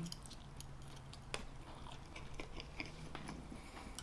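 A person chewing a mouthful of cheesy pizza fries: faint, scattered mouth clicks and smacks.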